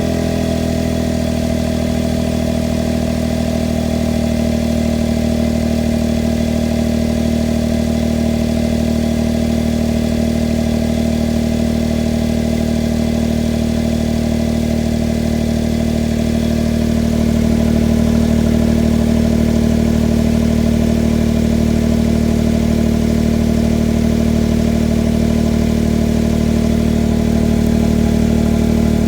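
Honda S660's small turbocharged three-cylinder engine idling through an HKS Hyper Spec-L II aftermarket muffler during its warm-up after a cold start at about minus 8 °C. The exhaust note is steady and gets slightly louder about two-thirds of the way through.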